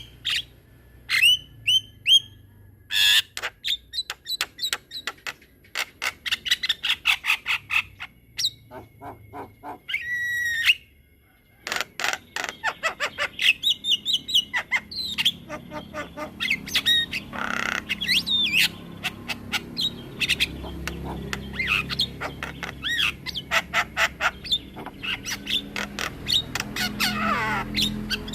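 Javan myna singing a long, varied song of rapid clicking rattles, squawks and short whistles, with a brief pause about eleven seconds in.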